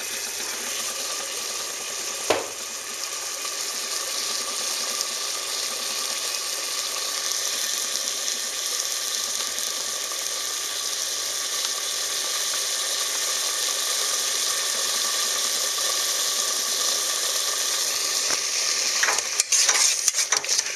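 Tomato, onion and pepper sauce sizzling in the open pot of a Mondial Pratic Cook electric pressure cooker, a steady hiss that grows slowly louder. A single sharp knock comes about two seconds in, and near the end a spoon scrapes and clatters against the pot as the sauce is stirred.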